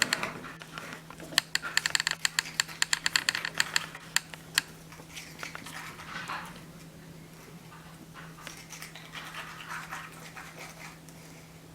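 Plastic stirring stick clicking and scraping against a paper cup while mixing cement powder, wood glue and water into a paste: quick rapid clicks for the first few seconds, then softer scraping.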